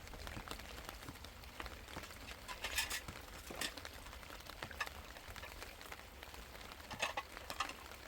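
Steady light patter of rain, with scattered small ticks and a few brief louder rustles or clatters about three seconds in and again near seven seconds.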